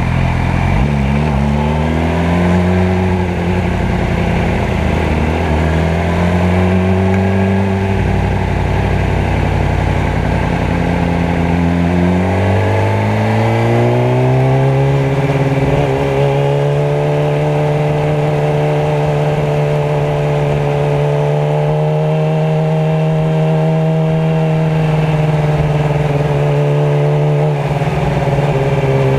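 Motorcycle engine running in traffic, its pitch rising and falling with speed in the first half, climbing between about twelve and fifteen seconds in, then holding nearly steady.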